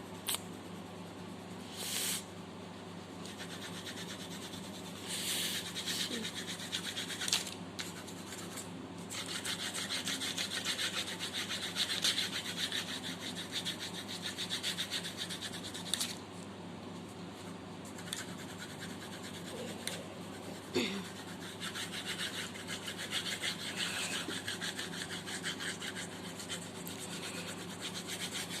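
Pencil lead scratching across paper in rapid back-and-forth shading strokes. A few short strokes come first, then longer runs of fast strokes with a pause in the middle, over a steady low background hum.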